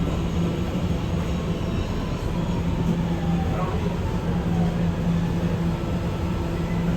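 An R211A New York City subway car standing at a station with its equipment humming steadily under general station noise, with faint sliding whines in the middle.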